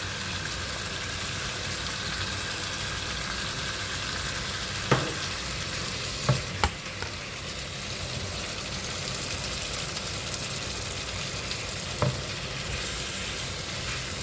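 Chicken and courgette sizzling steadily in a frying pan, with a few sharp knocks of a spoon against the pan.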